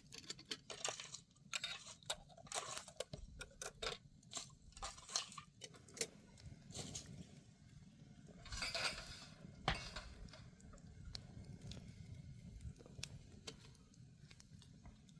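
Irregular light clicks and knocks, with a short scraping rush about nine seconds in.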